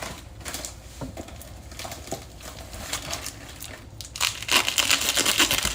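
Plastic cheese packaging being handled, crinkling and crumpling, with scattered light clicks and taps at first, then louder, dense crinkling about four seconds in.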